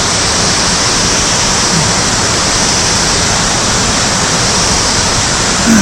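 Rushing water of a mountain stream pouring down a cascade close by, a loud, steady rush with no break.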